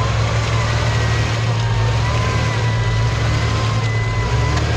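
Off-road vehicle engine running steadily at high throttle under heavy load while pulling through mud, with a faint wavering whine above it.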